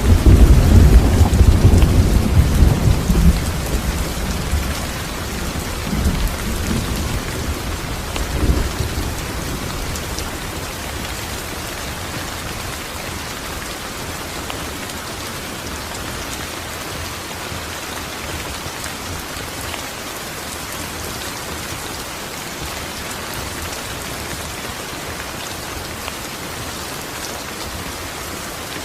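Steady rain falling, with a loud roll of thunder at the start that fades over a few seconds and two weaker rolls soon after, then rain alone.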